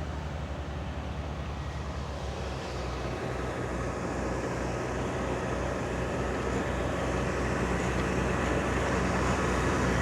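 Grass-mowing machine engine running steadily, growing louder as it comes closer.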